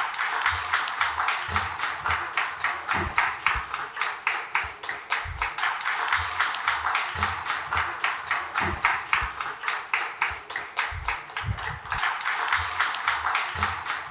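Audience applauding: a dense run of claps several times a second, with a few low thumps mixed in.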